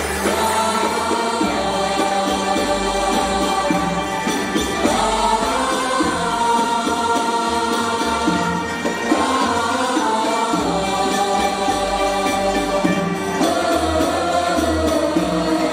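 A choir singing an Arabic song in unison with instrumental accompaniment, in phrases that rise and fall.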